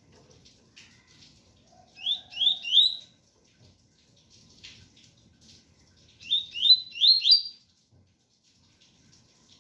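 Double-collared seedeater (coleiro) singing the 'tui-tui' song: two short phrases of quick rising whistled notes, three in the first and four in the second, over a faint hiss of rain.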